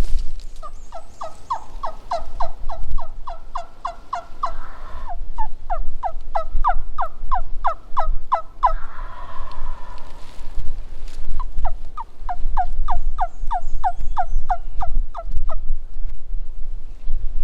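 Turkey yelping: three long series of evenly spaced yelps, each note dropping in pitch, about four or five a second, with a pause between runs. A low rumble runs underneath.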